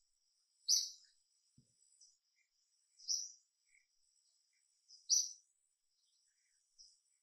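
Wild bird calling: three short, high calls about two seconds apart, with fainter chirps between them.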